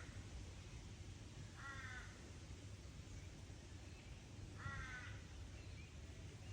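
A crow cawing: single short hoarse caws about three seconds apart, twice, over a steady low wind rumble.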